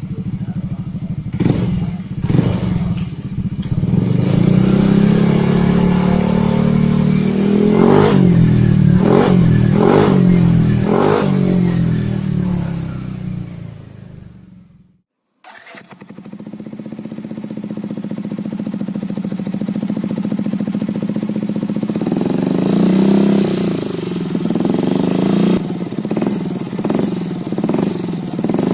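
Yamaha NMAX scooter's single-cylinder engine through an aftermarket racing exhaust, revved in short blips and then in longer rises in pitch with several sharp cracks. It dies away about halfway through. After a brief silence a second racing exhaust is heard running and being revved again.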